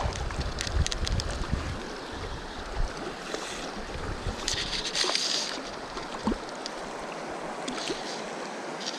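Mountain river water rushing steadily, with wind rumbling on the microphone in the first few seconds and a short splash about five seconds in.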